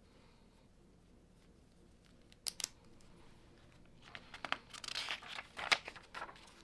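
Plastic Lego bricks being handled and pressed together: two sharp clicks about two and a half seconds in, then a busy run of clicking and rustling for about two seconds near the end.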